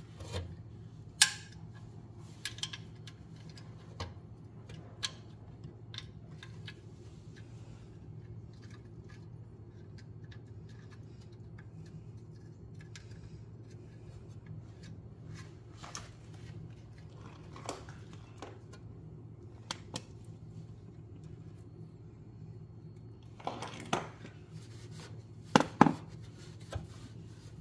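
Scattered metal clicks and clinks of a socket and ratchet as a magnetic sump plug with a copper washer is threaded back into an oil pan, with a cluster of sharper clicks near the end, over a steady low hum.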